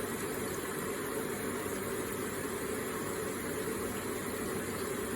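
Electric water feature with water trickling and splashing in a steady, unbroken stream.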